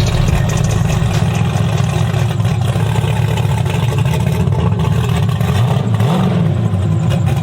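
Twin-turbo Chevy Silverado drag truck's engine idling loudly with an uneven, choppy note, warming up, with a brief rev that rises and falls about six seconds in.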